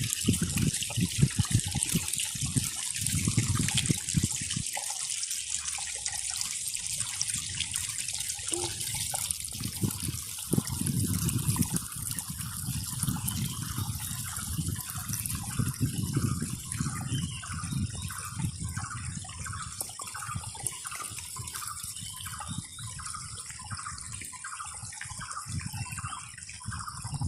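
Water running steadily, with low rumbling swells at times. Through the second half a faint short call repeats about one and a half times a second.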